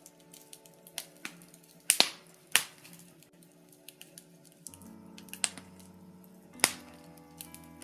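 Birch logs burning in a fireplace, crackling steadily with many small ticks and a few sharp pops, the loudest about two, two and a half, and six and a half seconds in.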